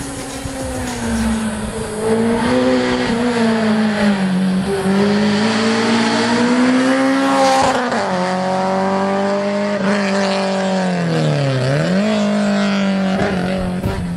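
Competition car engine at high revs on a hillclimb run, its pitch climbing and falling with each gear change. Late on the revs drop sharply and then climb back up as it accelerates again.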